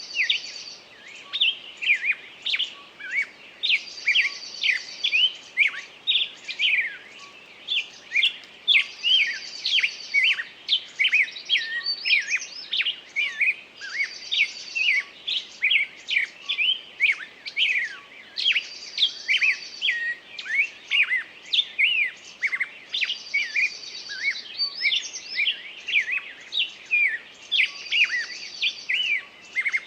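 Several small birds chirping and singing without pause. A short, even trill recurs about every five seconds over the quicker chirps.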